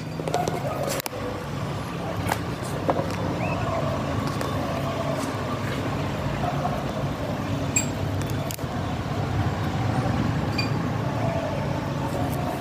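Ford Figo petrol engine running steadily at idle; the title puts the engine's missing and weak pickup down to a cracked spark plug.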